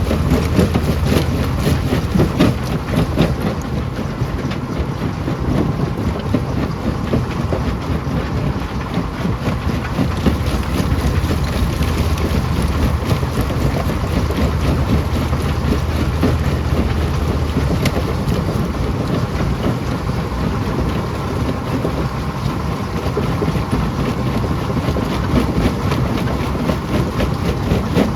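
Rock crusher running, a steady low machine drone under a constant rattle and knocking of stones being broken.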